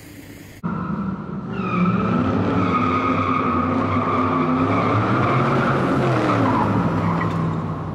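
Car engine running with tyres squealing. It starts abruptly about half a second in and holds a steady high squeal over a low engine note that slowly rises and falls.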